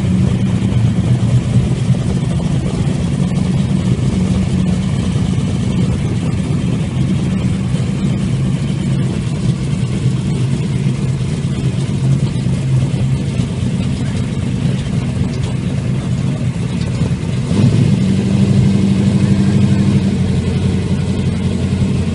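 Twin-turbo 632 big-block V8 of a 1968 Camaro, exhausting through four mufflers, running loud and steady at low speed as the car rolls along. It gets louder about three-quarters of the way through.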